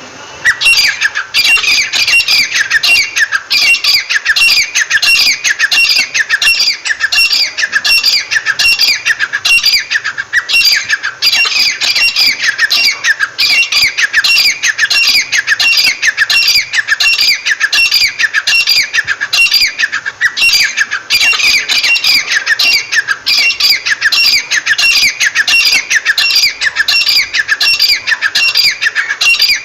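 Teetar (francolin) calling: a loud, unbroken series of rapidly repeated notes, each falling in pitch.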